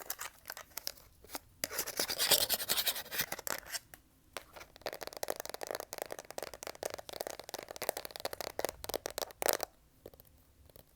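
Fast tapping, clicking and scratching in quick irregular runs, with a louder scratchy stretch about two to three and a half seconds in; it stops shortly before the end.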